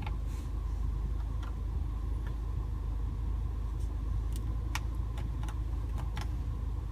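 2015 MINI Cooper S Countryman's engine idling steadily, a low rumble heard from inside the cabin, with a scattering of faint clicks.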